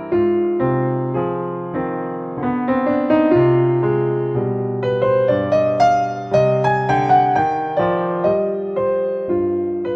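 Background music: a slow, gentle piano melody with sustained chords, each note struck and fading away.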